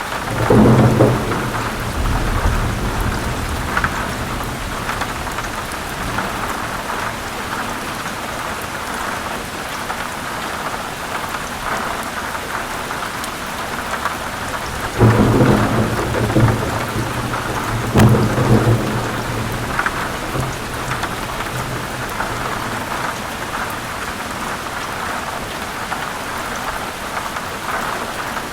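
Heavy rain falling steadily on forest leaves, with thunder rumbling three times: about half a second in, about halfway through, and again a few seconds later.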